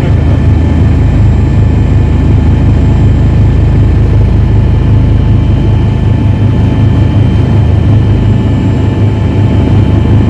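Firefighting aircraft engine droning loud and steady, with a low, fast flutter.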